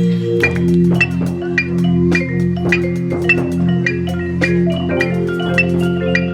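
Marching band music: ringing mallet-percussion strikes on a steady pulse about twice a second over sustained low chords, with the pitches shifting near the end.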